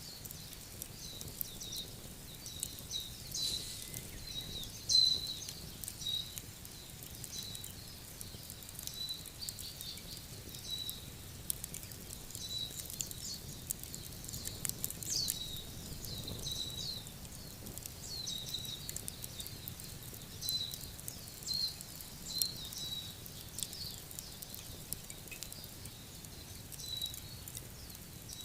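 Wood fire crackling with irregular sharp pops and snaps, one louder pop about five seconds in.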